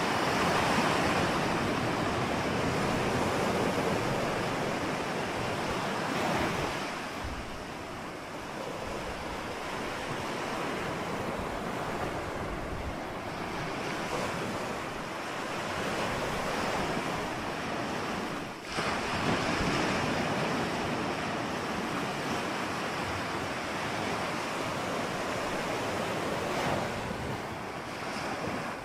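Ocean surf: waves washing in and out in a continuous rush that swells and eases every several seconds, with a sudden louder surge about two-thirds through.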